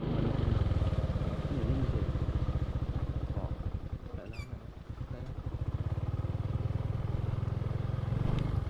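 Small engine running steadily, easing off a little around the middle and picking up again. A short high chirp sounds once about four seconds in.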